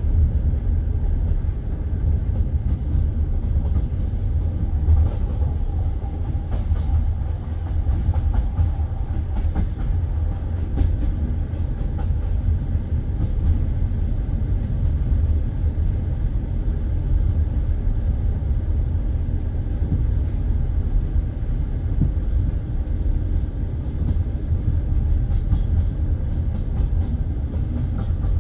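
Passenger train carriage running on the rails: a steady low rumble with scattered clicks of the wheels over rail joints, heard from inside the carriage.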